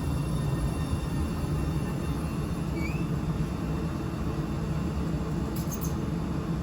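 Steady low rumble and hum of a railway station beside busy lines, with one brief rising chirp about three seconds in.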